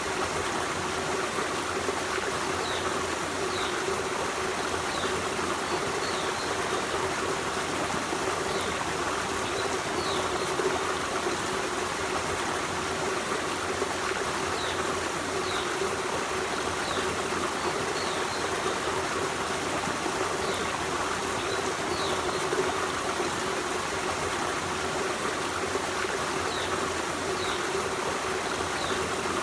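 Forest stream running steadily over rocks, an even rush of water with a trickling edge, with short high chirps scattered throughout.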